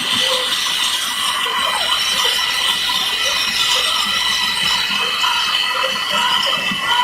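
Sikorsky S-70A Black Hawk helicopter's twin turboshaft engines running with a steady high whine.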